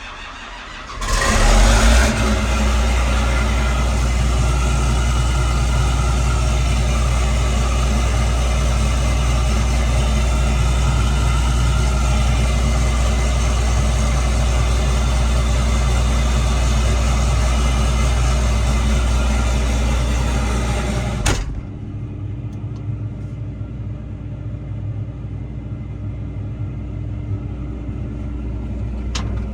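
Large farm-machine diesel engine starting about a second in and then running loud and steady. Past two-thirds of the way through it cuts abruptly to a quieter, lower steady engine sound.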